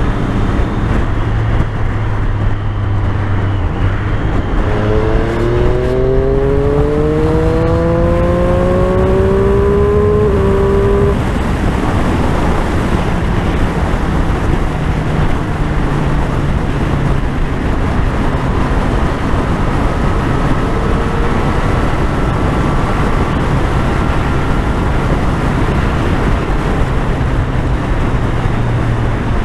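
Triumph Street Triple's three-cylinder engine running on the move, with steady wind rush over a helmet-mounted microphone. About five seconds in, the engine note climbs steadily in pitch for several seconds, then drops suddenly.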